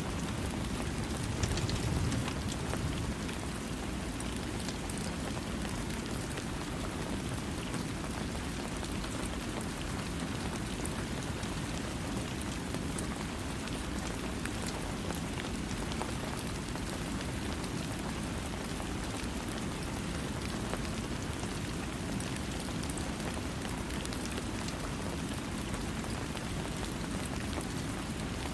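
Steady rain falling on surfaces, a dense even hiss with scattered individual drop ticks; the low end swells briefly about two seconds in.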